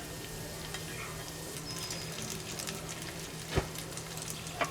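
Chicken gizzards and hearts sizzling in hot oil in a pan, with a steady crackle. Two sharper knocks come about three and a half seconds in and again near the end.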